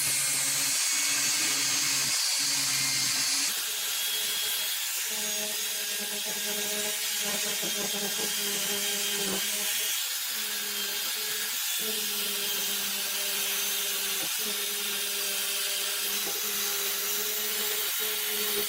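High-speed rotary tool grinding and polishing metal down to bare metal, its motor giving a steady hum under a hissing grind. The high hiss of the grinding drops off about three and a half seconds in, while the motor's hum runs on.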